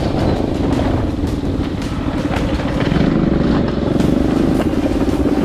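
Coleman CT200U mini bike's small single-cylinder engine running steadily under way, with a fast even pulsing.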